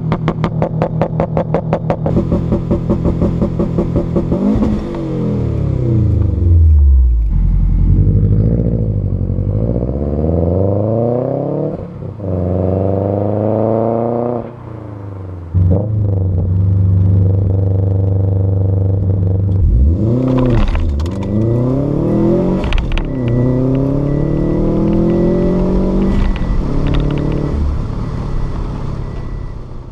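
Subaru WRX flat-four turbo engine through a catless downpipe and Invidia G200 cat-back exhaust, loud. It starts with an even pulsing beat, then revs up and drops back again and again, with a steady held stretch in the middle.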